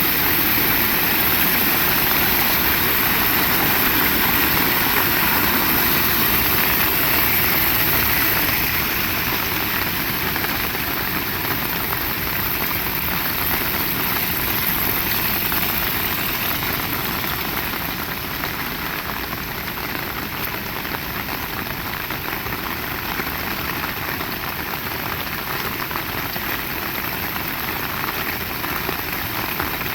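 Heavy rain pouring down steadily, a dense even hiss with a low rumble underneath, easing slightly about a third of the way in and again past halfway.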